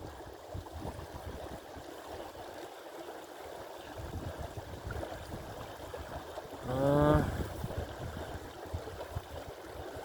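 Creek water running steadily, with scattered small clicks. About seven seconds in, a man gives a brief wordless vocal sound, like a hum.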